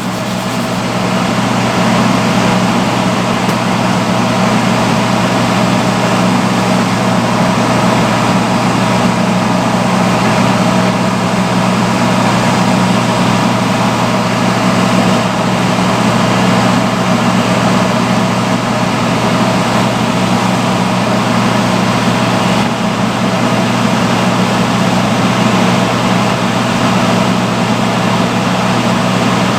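Vintage salon chair hood hair dryer running steadily on its highest setting: an even blowing rush with a steady low hum.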